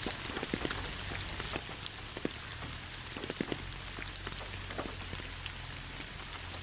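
Steady rain falling, with many close individual drops pattering and ticking on a surface over a continuous hiss.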